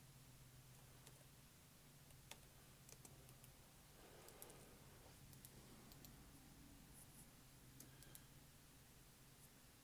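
Near silence with faint, irregular clicks of a computer mouse and keyboard, over a low steady hum.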